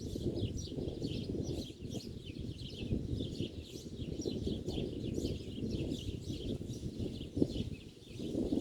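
Many small birds chirping rapidly and continuously in an overlapping chorus, over a loud, uneven low rumbling noise.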